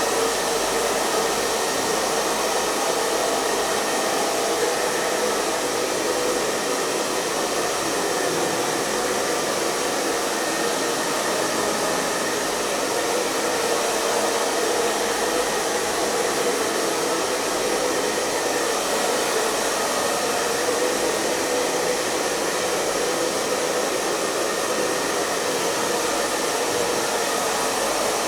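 Hair dryer blowing steadily with an even, unbroken hiss of rushing air and motor whir.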